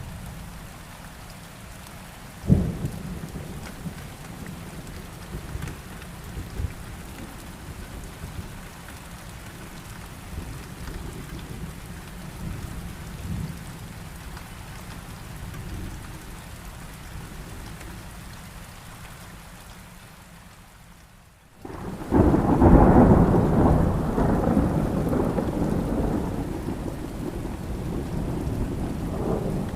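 Rain falling steadily during a thunderstorm, with a sharp thunderclap about two and a half seconds in. About two-thirds of the way through, the sound cuts out for a moment, then a long, loud rumble of thunder sets in over the rain and slowly dies away.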